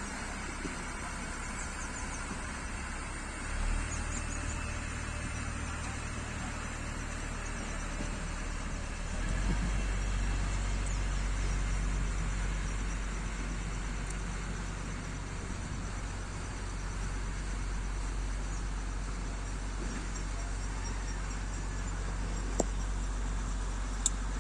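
Diesel engine of a railway overhead-equipment inspection car running with a steady low hum. It steps up in note and loudness a few seconds in and again about nine seconds in. Two sharp clicks come near the end.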